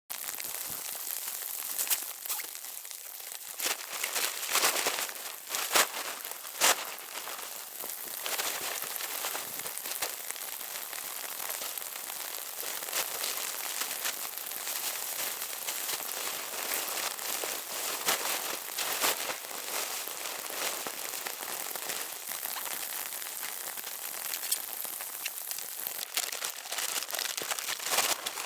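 Snow pelting tent fabric: a dense, steady crackling hiss, with louder sharp crackles in the first several seconds.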